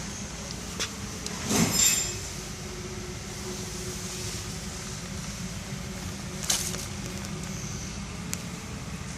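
A steady low mechanical hum with a few sharp knocks or clanks, the loudest pair about one and a half to two seconds in and another about six and a half seconds in.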